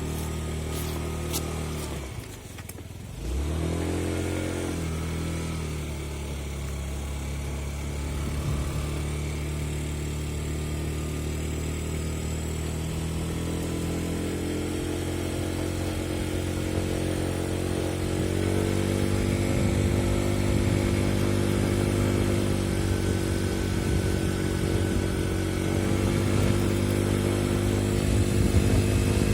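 Yamaha Gear 4T scooter's four-stroke engine running under way: it drops off briefly about two seconds in, then runs steadily and climbs in pitch and loudness from about halfway. The owner says the extraneous noise turns into a resonance that grows with the revs.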